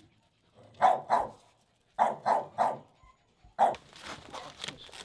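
Dog barking in short sharp barks: two about a second in, three in quick succession around two seconds, and one more near four seconds.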